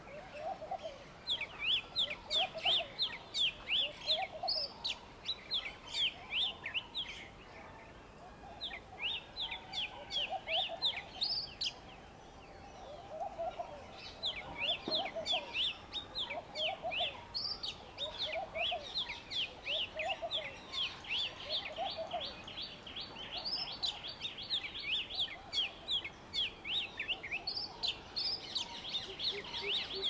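Birds calling: long runs of quick, high, falling chirps, about five a second, that pause twice and then carry on, over a lower call repeated about once a second.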